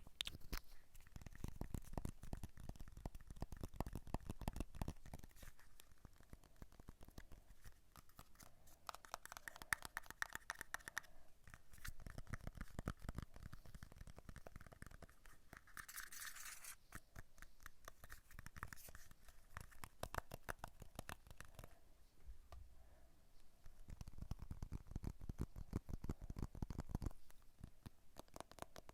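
Close-miked ASMR scratching and tapping: a dense stream of small rapid clicks and rubbing, growing louder for a few seconds at a time.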